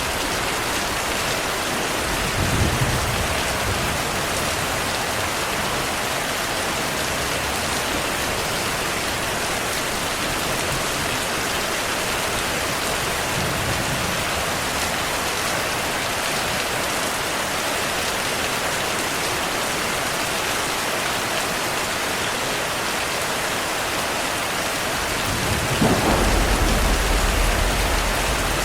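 Steady rain with low rumbles of thunder: a short rumble about three seconds in, a faint one midway, and a longer, louder roll starting near the end.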